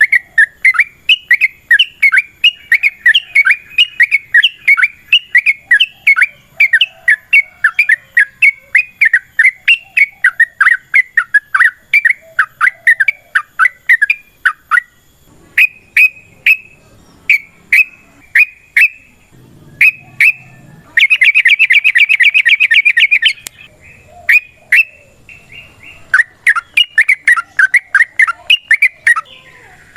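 Yellow-vented bulbul (trucukan) singing a long, fast run of chirped notes. About halfway through the run breaks into scattered single notes. A loud, very fast rattling trill comes about two-thirds of the way in, and the rapid chirping resumes near the end.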